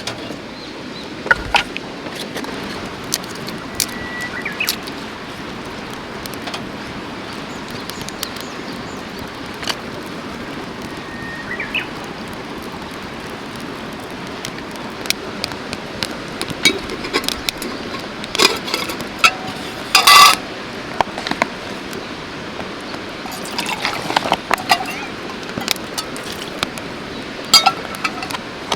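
Steady rush of a mountain stream's running water, with scattered clicks and clinks of camp gear being handled and a louder clatter about two-thirds of the way through.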